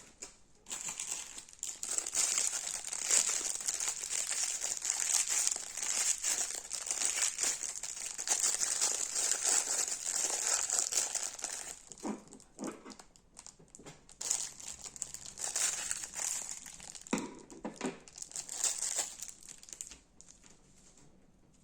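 Crunchy slime being worked by hand, a dense run of crisp crackling and crinkling that dips briefly a few times and stops near the end.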